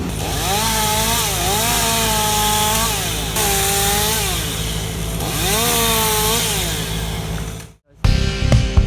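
Two-stroke chainsaw running at high revs while cutting, its pitch sagging under load and climbing back about four times. It cuts off abruptly near the end, and music with guitar follows.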